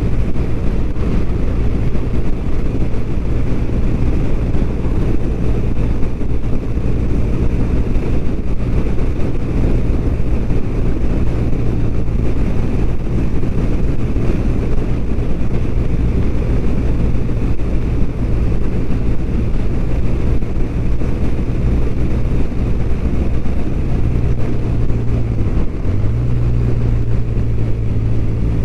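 BMW R1200RT's flat-twin boxer engine running steadily on the move, with wind rushing past. Near the end the engine note dips briefly, then settles at a slightly higher pitch.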